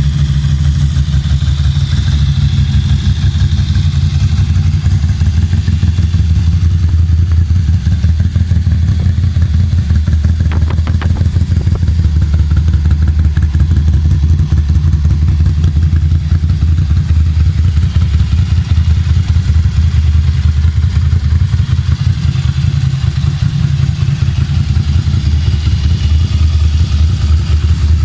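Ducati Monster's V-twin engine running steadily at a loud, even, low-pitched idle, its firing pulses throbbing quickly.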